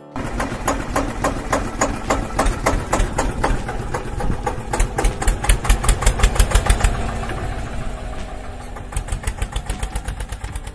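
Tractor engine sound effect: an engine chugging at idle with rapid, even beats, running harder and louder in the middle and again near the end.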